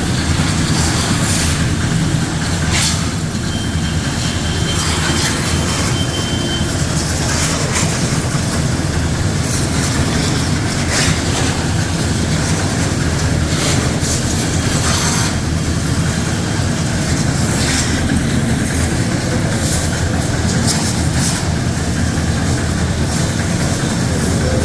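Pressure washer running and its water jet spraying over a car's engine bay: a steady motor hum under a loud hiss of spray that swells and drops as the jet moves.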